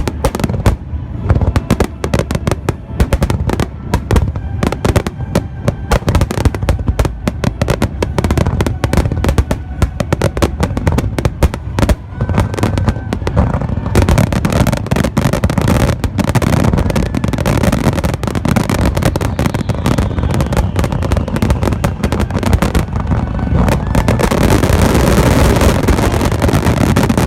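Fireworks display going off in rapid, dense volleys of bursts and crackles, thickening into a near-continuous crackle near the end.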